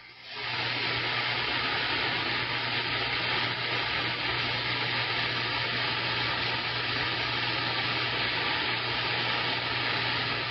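CB radio receiver static: a steady hiss of band noise with a low hum under it, heard from the radio's speaker between transmissions, starting just after a station stops talking.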